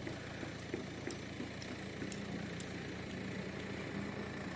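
A vehicle engine idling steadily, a low hum with a faint held tone that comes in about two seconds in.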